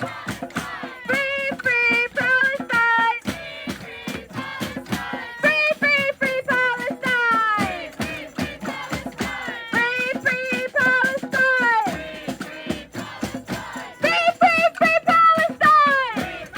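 A voice singing a melody in held, sliding notes over a rhythmic instrumental accompaniment with a steady beat.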